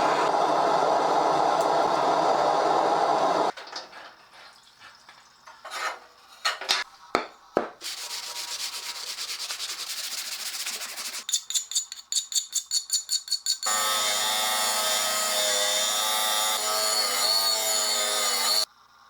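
Workshop metalworking sounds in short cuts. There is steady abrasive rubbing or sanding, then a few sharp clicks, a steady hiss, and rapid back-and-forth strokes at about four a second. Last comes a power tool running with a steady, slightly wavering tone, which stops abruptly near the end.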